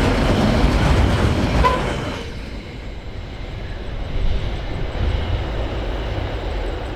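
Freight train running past on the rails, wagons rumbling; the noise falls away sharply about two seconds in, leaving a lower rumble.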